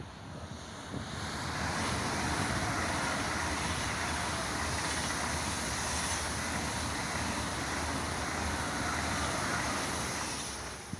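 ICE high-speed electric train passing at speed: a loud rush of wheel and air noise with no distinct pitch that builds over the first two seconds, holds steady, and eases off near the end.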